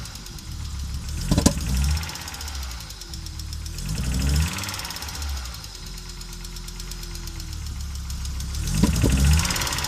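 Audi AAR 2.3-litre five-cylinder engine running roughly, its speed rising and sagging every few seconds, with a sharp crack about a second in and another near the end: the engine is misfiring.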